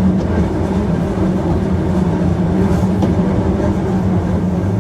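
Hankyu 1300 series electric train running at a steady speed, heard from inside the passenger car: a steady rumble of wheels on rail with a constant low drive hum and a few light rail clicks.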